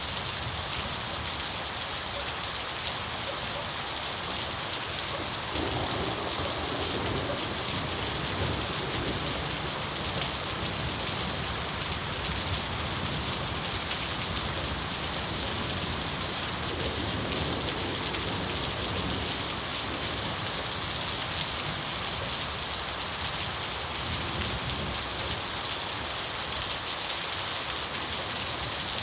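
Steady rain falling, with a rumble of thunder swelling twice, about six seconds in and again around seventeen seconds.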